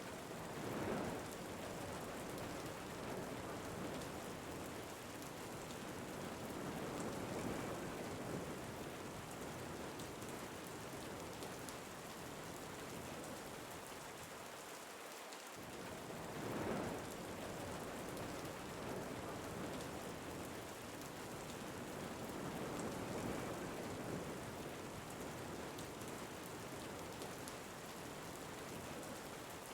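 Steady rain falling, with wind that swells and eases every few seconds; the ambience repeats about every fifteen seconds, as a looped track does.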